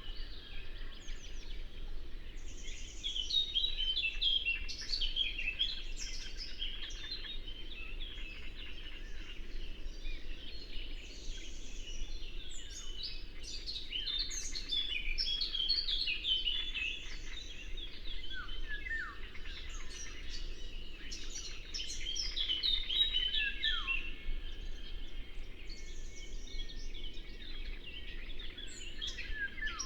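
Several songbirds singing and chirping at once, in quick overlapping trills and chirps, over the faint steady rush of a river.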